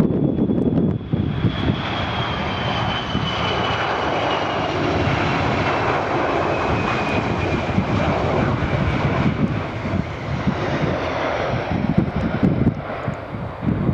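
Boeing 727-200 freighter's three JT8D turbofan jet engines passing by: a steady jet rumble with a high whine that slides steadily down in pitch over the first several seconds, then thins out near the end.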